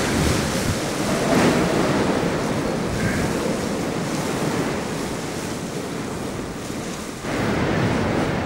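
Windstorm howling through an abandoned building, a dense rushing noise that swells and eases in gusts, dropping back around seven seconds in before a sudden new gust.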